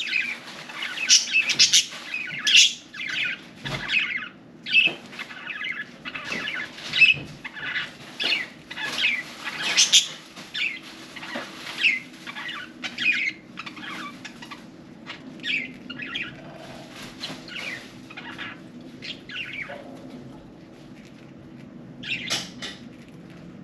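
Budgies chirping and chattering: many quick, high chirps close together, thinning out in the second half, with a short burst near the end, over a faint steady hum.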